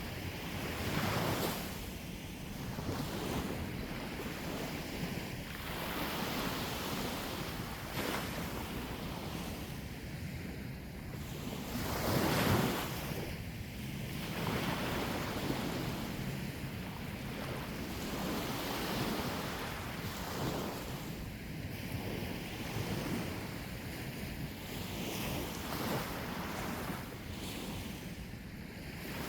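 Sea waves breaking and washing on the shore, swelling and falling every few seconds with the loudest surge a little before halfway, with wind buffeting the microphone.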